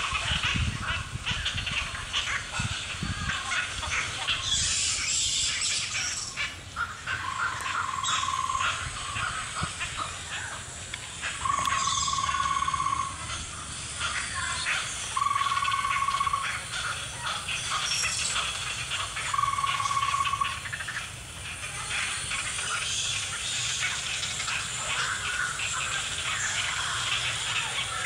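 Wild birds chirping and calling in a wetland, with a long, steady whistled note repeated four times, each lasting about a second.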